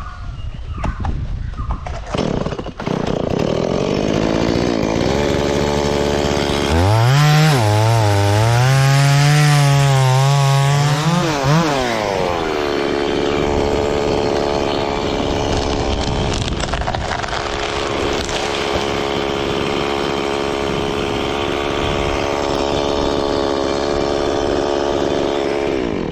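Chainsaw running: its engine comes up to speed, and about seven seconds in it cuts into the wood, the pitch wavering and sagging under load for about five seconds. It then runs at a steady speed.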